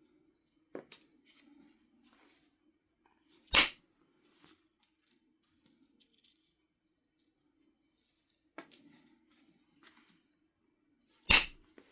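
Percussion flintknapping on Knife River flint: two sharp hard strikes on the stone, one about three and a half seconds in and one near the end, with lighter clicks and taps of stone between them.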